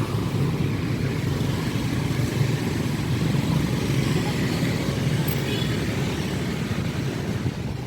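Steady rumble of busy road traffic, with motor vehicles passing continuously; it drops away near the end.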